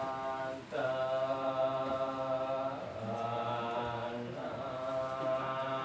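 Buddhist ceremonial chanting: voices holding long, nearly level notes, with short breaks for breath about a second in, near three seconds and after four seconds.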